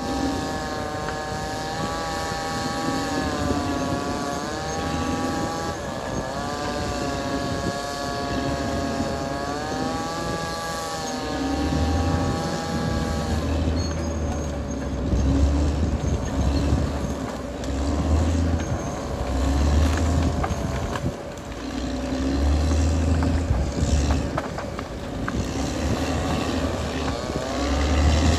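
Caterpillar D6R XL bulldozer running hard, its pitch dipping and rising several times in the first half. In the second half deep pulsing rumbles take over, with scattered knocks and cracks.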